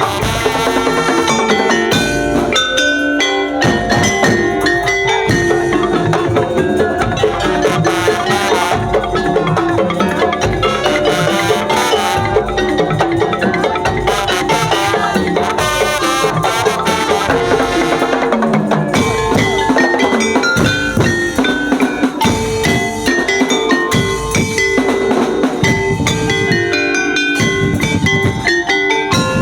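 Percussion ensemble music: drums under tuned mallet or metal percussion playing a busy melody of quick notes.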